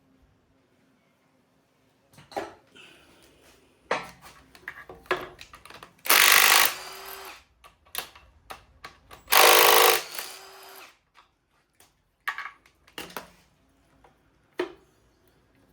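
A power tool runs in two bursts of about a second each, between scattered metal clicks and knocks.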